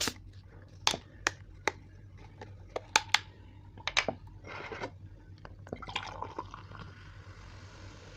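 A few sharp clicks and clinks of handling tableware, then cola poured into a glass with a steady fizzing hiss over the last couple of seconds.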